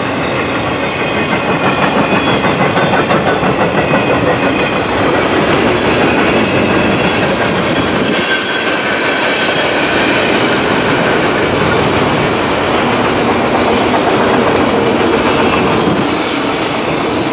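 A long CN freight train's cars rolling past close by: a steady loud rumble of steel wheels on rail, with rhythmic clickety-clack as the wheels cross rail joints.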